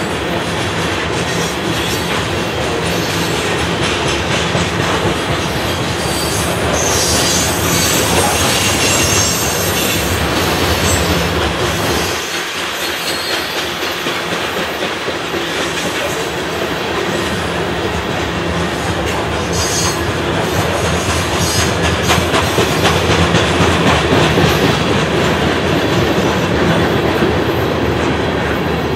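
Covered hopper cars of a CSX freight train rolling past close by, wheels clacking over the rail joints in a steady run, with stretches of high-pitched wheel squeal about a quarter of the way in and again after the midpoint.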